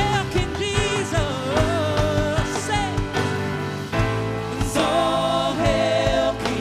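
Live worship music: singers holding and bending sung notes over a band with sustained keys and bass.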